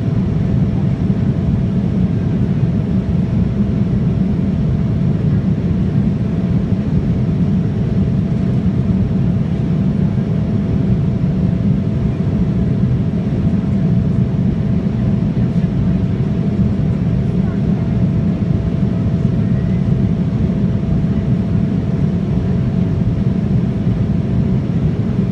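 Cabin noise of an Embraer 175 in flight: the steady low rumble of its CF34 turbofans and the airflow, with a faint steady hum above it.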